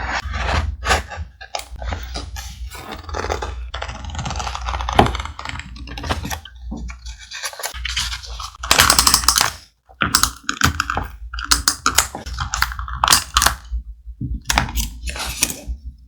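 Thick paper being handled close to the microphone: rustling, scraping and tapping in quick irregular strokes, with a louder, longer rustle about nine seconds in.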